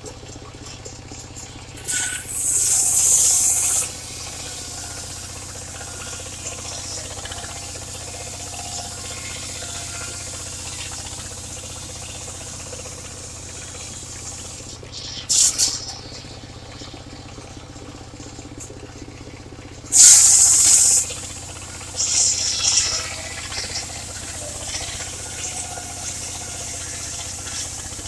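The engine of a portable circular sawmill running steadily, with loud hissing bursts of the blade cutting wood: one lasting about two seconds early on, a short one mid-way, and a cluster near the end.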